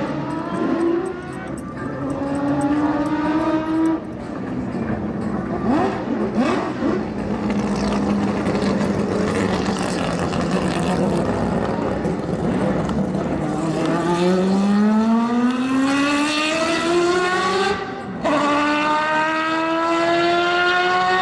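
Historic Formula 1 race car engine accelerating hard through the gears. Its pitch climbs and drops sharply at upshifts, about four seconds in and again near the end, with a steadier, lower note in the middle before a long climb.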